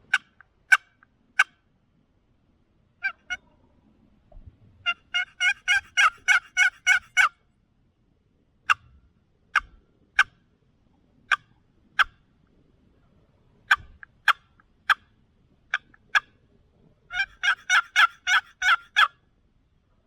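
Turkey calling, loud and close: single sharp clucks and cutts spaced a second or so apart, and twice a fast run of about ten yelps, each run lasting a couple of seconds.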